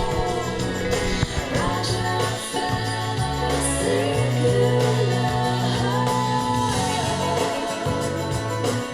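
A song with singing, played back through a pair of full-range speaker drivers in a still-unfinished ported cabinet and picked up in the room.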